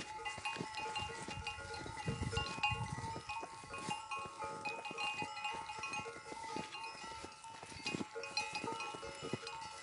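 Many livestock neck bells clinking at several pitches throughout, over a flock of goats and sheep, with scattered knocks.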